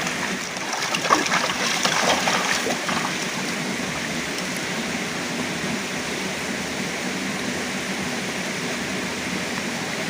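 Steady rushing of water, an even noise, with short irregular taps and spatters in the first three seconds.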